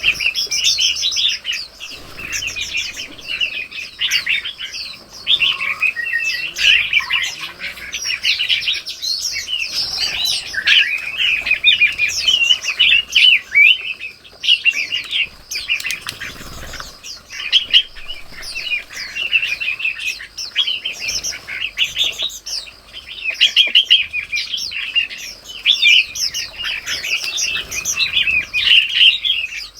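Dense chorus of small songbirds chirping and twittering, many quick high calls overlapping without pause.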